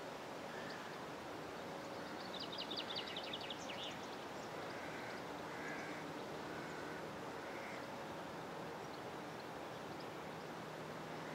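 Faint countryside ambience: a steady hiss with wild birdsong. A fast, high trill lasting over a second starts about two seconds in, and a few short chirps follow.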